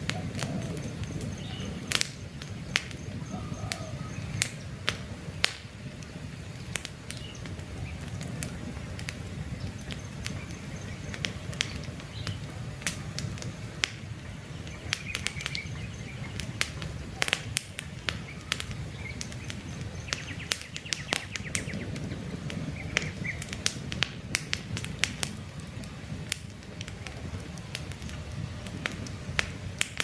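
Wood campfire crackling, with frequent sharp pops over the steady low rush of the flames. Faint bird chirps come and go in the background.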